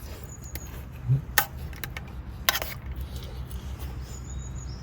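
Eating from a camp dish: a few sharp clicks of a utensil against the dish, one about a second and a half in and two close together past halfway, over a low steady background rumble.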